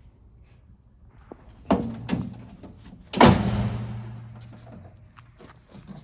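Cargo-bed tailgate of a Cowboy utility vehicle being knocked and banged to test for rattle after its latches were readjusted: two sharp knocks just under two seconds in, then a loud bang a second later that rings on and fades over about two seconds. The rattle is much reduced, barely heard.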